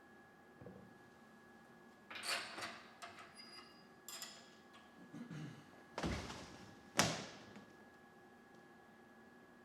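A series of clunks and rattles of metal being handled, ending in a sharp slam about seven seconds in, over a faint steady machine hum.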